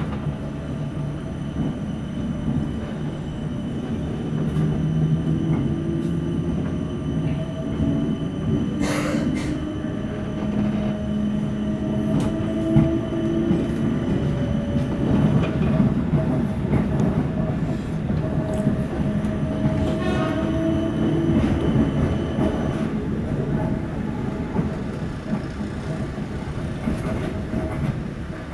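Interior of a Class 455 electric multiple unit running at low speed: a steady rumble with a motor hum. There is one sharp knock about nine seconds in and a few fainter clicks from the wheels and running gear.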